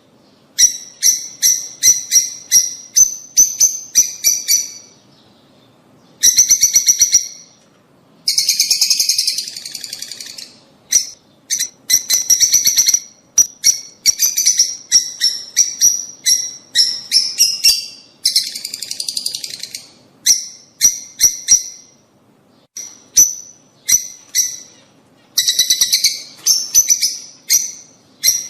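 Lovebirds calling: rapid series of high-pitched chirps in bursts with short pauses, and a few longer, harsher chattering stretches.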